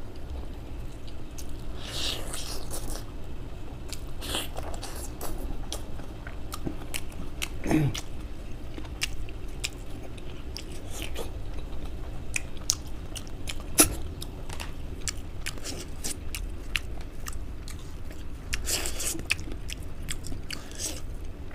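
Close-up mouth sounds of a person eating: wet chewing and lip smacking, broken by many crisp clicks and small crunches, with one sharper click about two-thirds of the way through.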